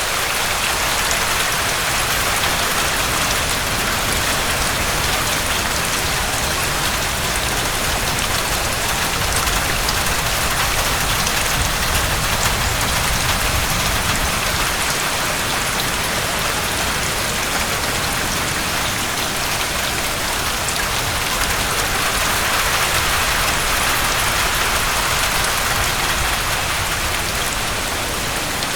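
Steady heavy rain, a dense hiss of drops pattering on a surface, with a slight swell in intensity late on.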